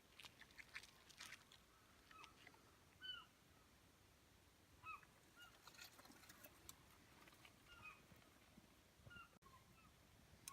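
Faint, short bird calls, each a quick rising-and-falling note, repeating every second or so, with a few light crackles in the first second and a half.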